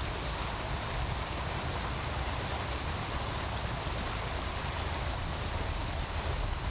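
Meltwater stream rushing steadily, with a wood fire crackling over it in scattered sharp pops, the loudest just at the start.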